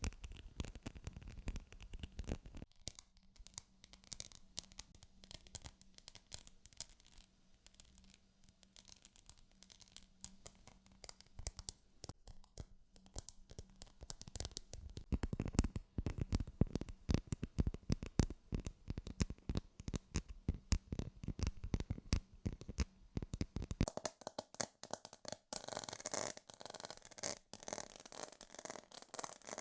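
Close-miked ASMR triggers: rapid scratching and tapping by fingers on objects, in a fast crackly stream. The texture changes a few times, quieter a few seconds in, denser from about halfway, and brighter near the end.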